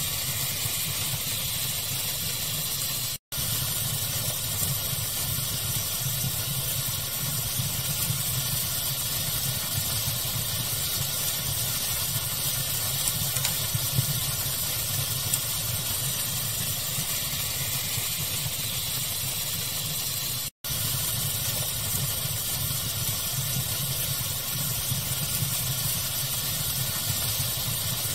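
Looped fire ambience blended with pink noise: a steady, even hiss with a low rumble underneath and a few small pops near the middle. The sound cuts out to silence for an instant twice, about three seconds in and again about twenty seconds in, at the loop's seams.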